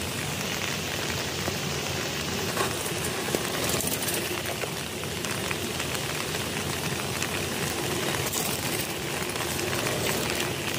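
Steady rain falling: an even hiss with scattered faint ticks.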